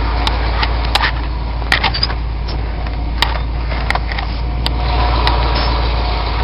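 Lifted 1996 Ford F-150's engine running at a low, steady rumble through its straight-piped Flowmaster exhaust as the truck creeps forward, with about a dozen scattered sharp cracks and clicks.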